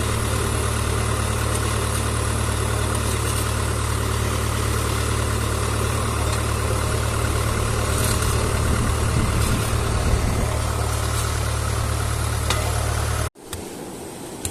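An engine running steadily with a deep, even hum. It cuts off abruptly about thirteen seconds in, leaving only faint background sound.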